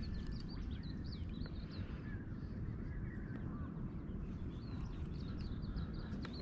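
Birds chirping in quick runs of short, high calls, over a steady low rumble of wind and water.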